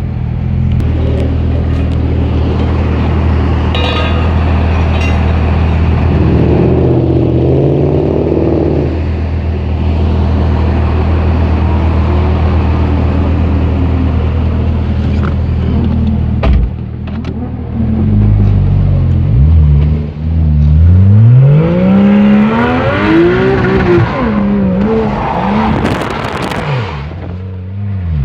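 Porsche 911 Carrera GTS 3.8-litre flat-six through an IPE exhaust, holding a steady low note for about sixteen seconds. It is then revved hard several times, the pitch climbing and dropping repeatedly through the last ten seconds.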